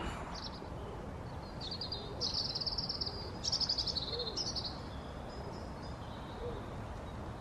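A small songbird singing two rapid, high trilling phrases, from about a second and a half in until near the middle, over a steady outdoor background hum.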